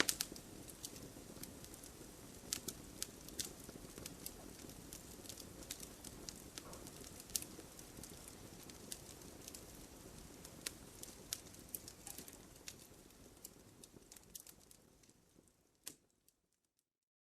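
Wood fire in a fireplace crackling, with frequent sharp pops from the burning logs over a low, steady rushing of the flames. It fades out near the end to silence.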